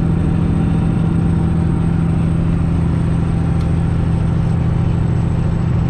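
Straight-piped Detroit diesel engine of a Freightliner Classic XL semi truck pulling up a mountain grade, a steady deep drone that holds one pitch throughout.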